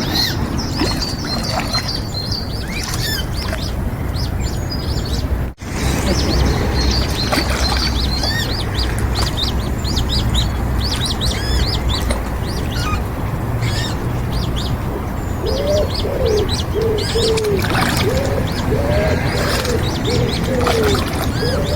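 Small songbirds chirping and twittering all through, over a steady low rumble. In the second half a dove coos, about ten arched notes in a row.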